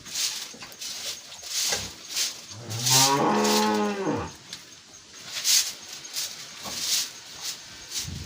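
One long, low farm-animal call about three seconds in, lasting about a second and a half and rising then falling in pitch, over repeated short rustling and scraping sounds.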